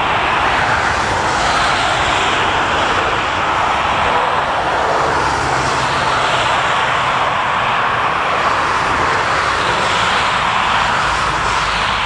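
Jet airliner's engines at takeoff thrust: a steady, loud roar that holds level throughout.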